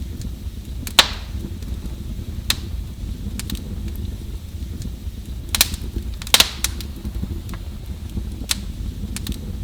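Wood fire burning in a fireplace with a steady low rumble and scattered sharp crackles and pops. The loudest pops come about a second in and in a quick cluster around six and a half seconds in.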